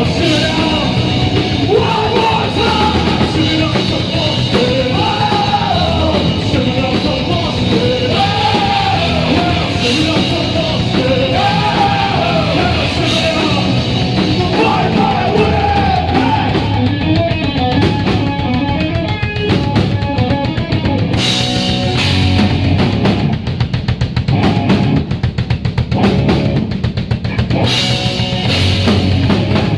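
Live rock band playing a Celtic-punk song: drum kit and electric guitars, with a singer over the first half, then a fast repeating instrumental riff.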